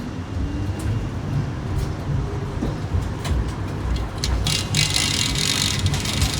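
Tram running with a steady low rumble and scattered clicks and rattles; a hiss comes in about four and a half seconds in.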